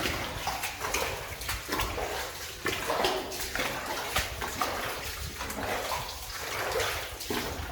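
Feet in boots wading through shallow water, a splash and slosh with each step, roughly one a second.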